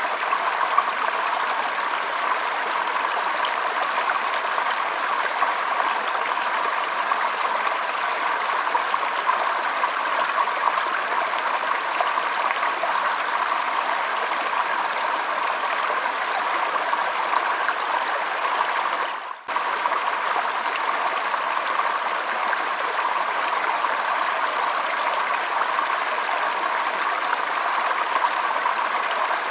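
Shallow stream flowing, a steady trickling rush of water with no change in pace. The sound drops away for a split second once, about two-thirds of the way through.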